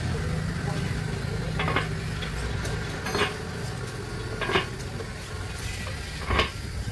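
Four sharp metallic clinks, about a second and a half apart, over a low steady rumble that fades.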